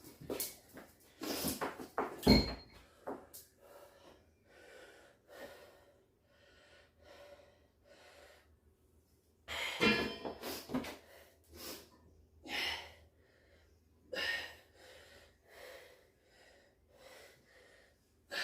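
A man breathing hard through a set of heavy lifts, with sharp forceful exhales and a loud strained breath about ten seconds in. A heavy thump with a brief ring about two seconds in, like a loaded barbell set down.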